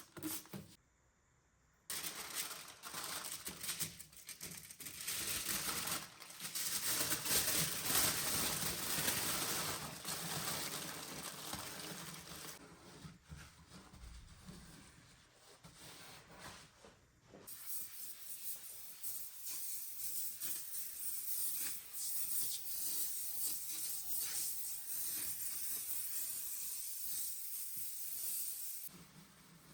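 Scrubbing noise, a surface being rubbed hard during cleaning. It starts after a brief pause about two seconds in and eases near the end.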